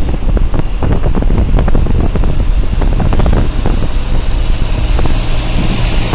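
Wind buffeting the microphone over the steady low rumble of a moving road vehicle, with frequent irregular gusty flutters.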